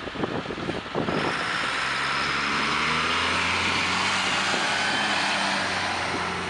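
A motor vehicle driving past, its tyre hiss and engine hum swelling from about a second in and fading near the end.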